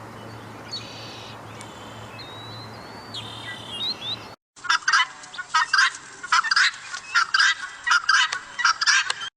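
Faint outdoor ambience with a low hum and a few thin bird chirps. After a cut, domestic fowl give a rapid run of loud, sharp repeated calls, about three a second.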